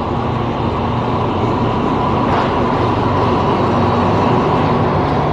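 Train running, a steady rumble and hum.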